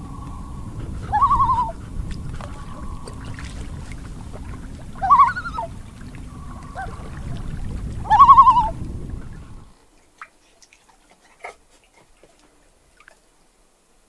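A bird's quavering call, about half a second long, given three times a few seconds apart over a low steady rumble. The rumble cuts off suddenly near the end, leaving only a few faint clicks.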